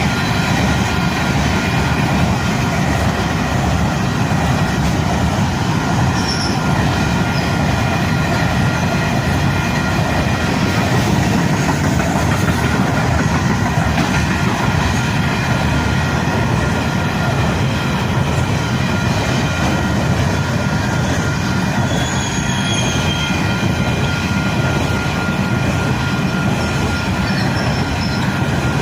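Coal train wagons rolling past at about 100 km/h: a steady, loud rumble and rattle of wheels on rail, with a high, steady wheel squeal held throughout.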